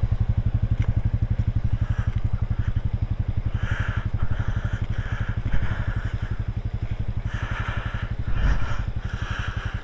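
Off-road vehicle's engine idling steadily with an even, rapid low pulse, with a faint hiss coming and going over it.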